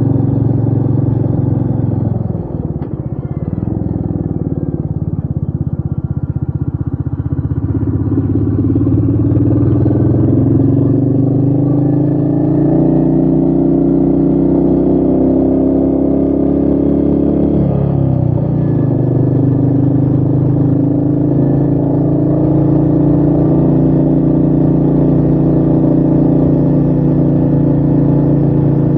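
Royal Enfield Meteor 350's single-cylinder engine running under way. The engine note dips briefly a few seconds in, climbs steadily for about ten seconds, dips again past the halfway mark, then holds steady.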